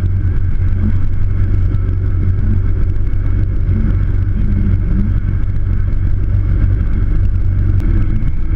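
Steady low drone of a motor vehicle under way, with a constant rush of road and wind noise and no change in pace.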